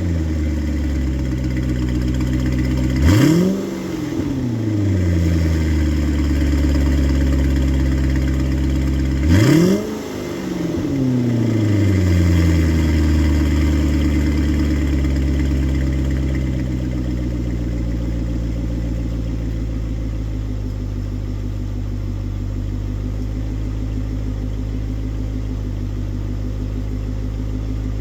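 2008 Cadillac XLR's V8 running through a Corsa aftermarket exhaust, blipped twice from idle, each rev climbing sharply and falling back. It then settles into a steady idle.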